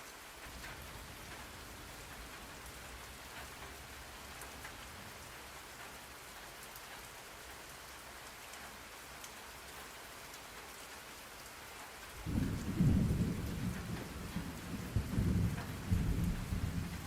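Steady rain falling, with a roll of thunder starting suddenly about twelve seconds in and rumbling low and louder, swelling and ebbing, to the end.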